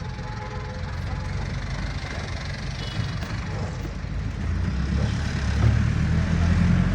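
Street traffic: a motor vehicle's low engine rumble that grows louder over the last couple of seconds, as if passing close.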